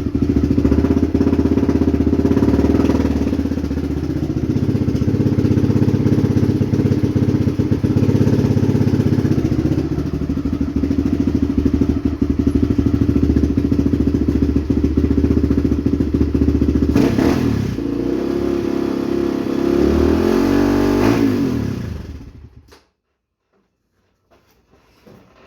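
Quad (ATV) engine running at a steady idle, with a short rise in revs about 17 seconds in and a wavering rev near the end, then shut off abruptly.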